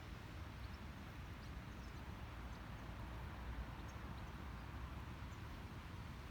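Outdoor ambience: a steady low rumble and soft hiss, with a few faint, short high chirps scattered through it.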